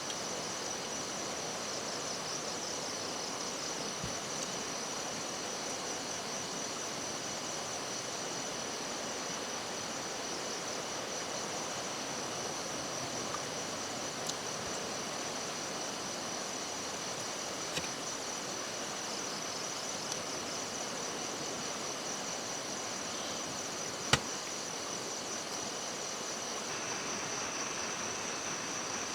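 Forest ambience: insects trilling steadily high up over an even hiss of running water. A single sharp click sounds near the end.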